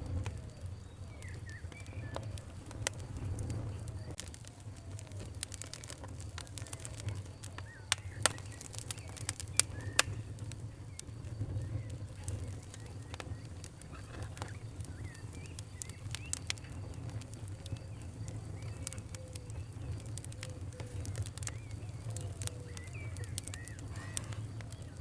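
Fire crackling, with irregular sharp pops that are strongest about eight to ten seconds in, over a steady low rumble. Birds call faintly in the background.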